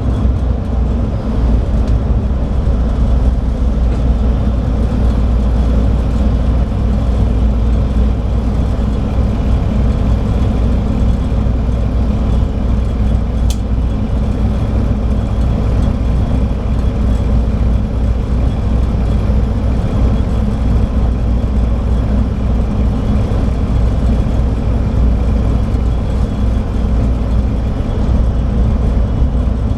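Scania DSC9 diesel engine of a 2007 Scania K340IB coach running steadily with the coach under way, a steady low drone with road noise and no gear changes.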